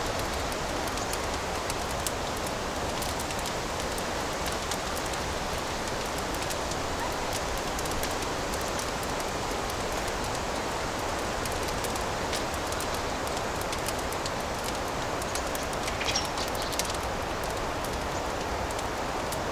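Wood fire burning in a fireplace: a steady hiss with many small crackles and pops, and a few louder pops about sixteen seconds in.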